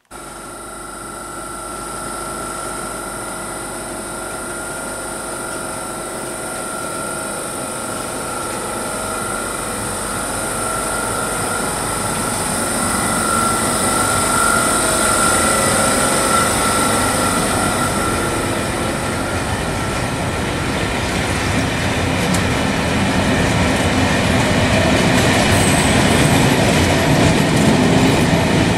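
A continuous mechanical running noise with steady high whining tones, starting suddenly and growing gradually louder.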